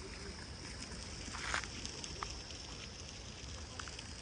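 Wind buffeting the microphone in a steady rumble and hiss, with a few short sharp sounds, the loudest about one and a half seconds in.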